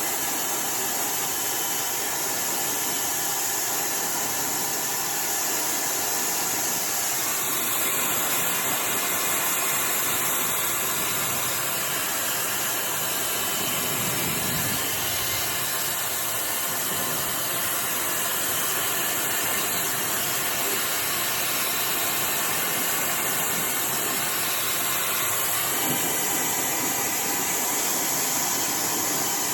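iDryer AI Pro Style hair dryer blowing steadily while hair is dried, a continuous airy whoosh with a motor hum. Its tone shifts slightly twice, about seven seconds in and again near the end.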